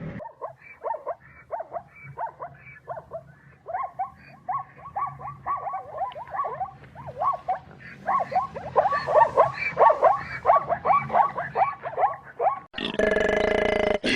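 Animal calls: a rapid series of short yelps, each falling in pitch, several a second, growing louder and denser about two-thirds of the way in. Near the end they cut off and a louder, steady sound with held tones takes over.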